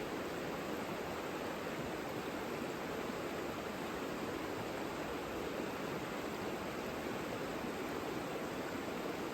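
The Savica river flowing: a steady, unbroken rush of water.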